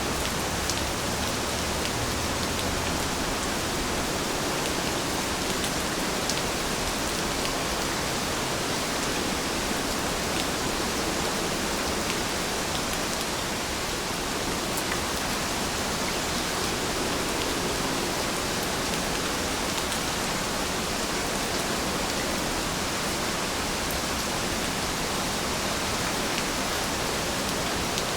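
Steady rain falling, a dense even hiss with scattered faint ticks of individual drops.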